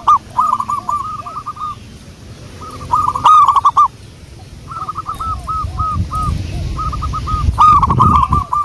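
Zebra dove (perkutut) cooing: repeated phrases of quick, stuttering hooked notes, loudest near the start, about three seconds in and near the end. A low rumble sits under the calls in the second half.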